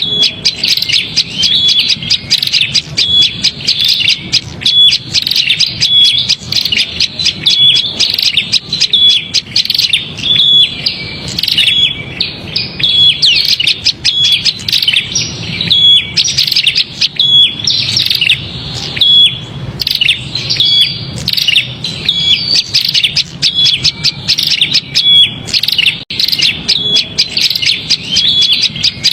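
Prinia (prenjak) giving a loud, agitated chattering call: a dense, unbroken run of high chirps with a short steady note repeating about twice a second. This is the 'ribut' (noisy) excited call used as a lure to draw small birds in.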